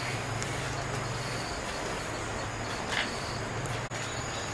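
Steady background hum and hiss with crickets trilling faintly and high; a brief soft click about three seconds in.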